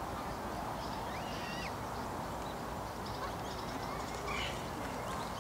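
Steady outdoor background hiss with a few faint, short bird calls, about three scattered through.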